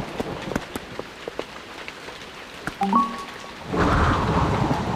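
Steady rain with scattered drips. About three seconds in, a few short musical notes step upward. Then a louder rumble of thunder comes in near four seconds.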